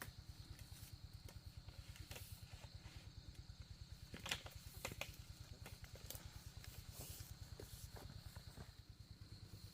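A small motor running steadily with an even low pulsing, about seven beats a second, under a faint steady high tone and a few light clicks near the middle.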